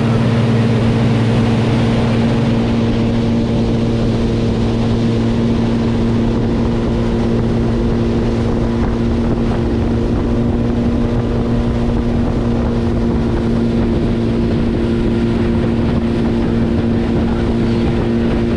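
Boat engine running at a steady cruising speed, a constant drone, with wind and water rushing over the microphone.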